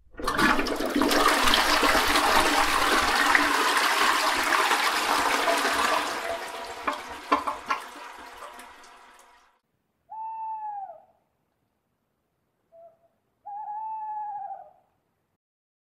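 A toilet flushing: a loud rush of water that starts at once, eases after about six seconds and trickles away by about nine and a half seconds in. After a short gap an owl hoots: one long hoot, a short faint note, then a second long hoot, the pattern of a tawny owl's territorial call.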